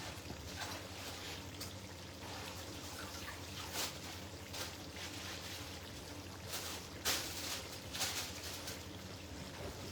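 Liquid trickling steadily in the kitchen, with a few short clicks scattered through it.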